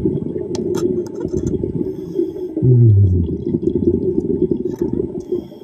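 Underwater bubbling and rumble of a diver's exhaled breath, with a brief low tone that drops in pitch about halfway through.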